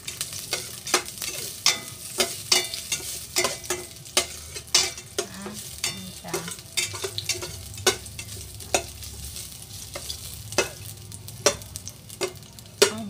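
Garlic and ginger sizzling in hot oil in a cooking pot, with a utensil clicking and scraping against the pot at an irregular pace, about one or two knocks a second, as they are stirred.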